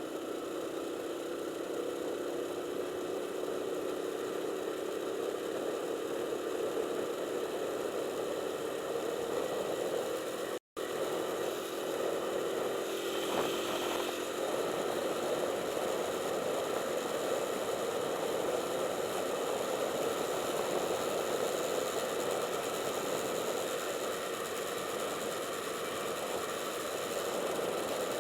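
Motorcycle engine running steadily, its pitch sagging slowly over the first half, with the sound cutting out for a moment about ten seconds in.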